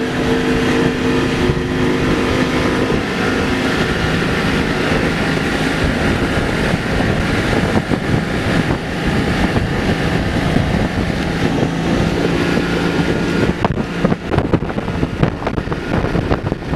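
Motorboat engine running under way, with wind buffeting the microphone; the wind gusts grow choppier near the end.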